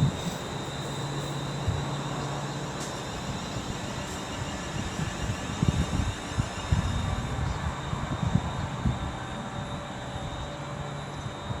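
Distant DRS Class 68 diesel locomotive approaching unseen, its engine a steady low drone, with a faint high steady whine alongside.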